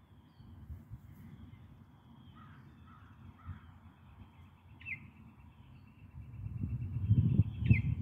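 Wild birds calling: a few short harsh caw-like calls, then two sharp notes each followed by a rapid buzzy trill. From about six seconds in a low rumble on the microphone grows and becomes the loudest sound.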